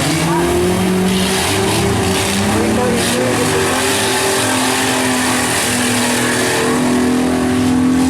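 Several compact truck and van engines running hard and revving at once, their pitches rising and falling over one another.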